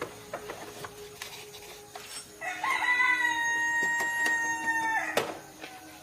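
A rooster crowing once: the call rises briefly, then holds one long even note for about two and a half seconds. Light clicks sound before it, and a sharp knock follows just after it ends.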